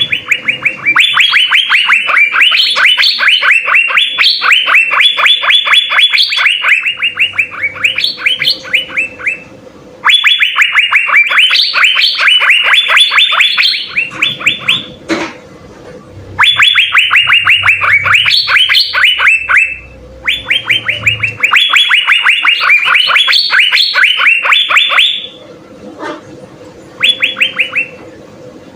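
Asian fairy-bluebird (cucak biru) singing vigorously: fast runs of sharp, repeated high notes in several long bursts broken by short pauses, the last burst brief.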